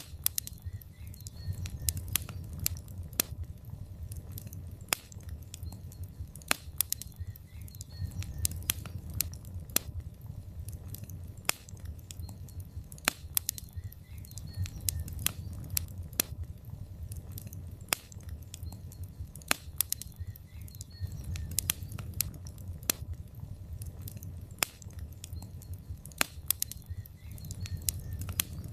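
Wood logs burning in a fireplace, crackling: irregular sharp pops and snaps, several a second, over a steady low rumble of the fire.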